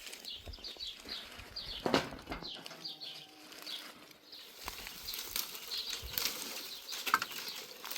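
A bird chirping in a quick series of short, high, falling notes, about three or four a second, for the first few seconds. Then scattered rustling and light clicks and knocks.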